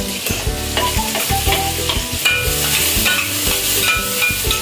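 Chopped garlic and onion sizzling in hot oil in a glass pot as more is scraped in from a plate with a metal spatula, with light clicks and scrapes of the spatula.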